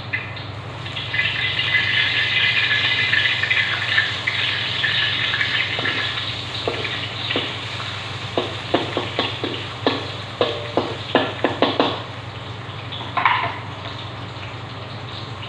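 Chopped ingredients sizzling in hot oil in a metal wok, the sizzle strongest in the first few seconds. About halfway through, a spatula stirs them, scraping and knocking against the wok in a quick run of sharp clicks. A steady low hum runs underneath.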